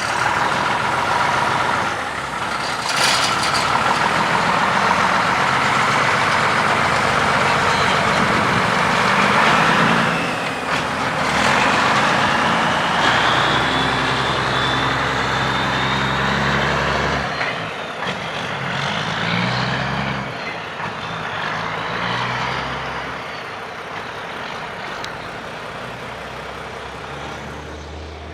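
Heavy diesel truck engine running under load, its pitch stepping up and down as it revs and changes gear, with a loud hiss of engine and exhaust noise, fading near the end.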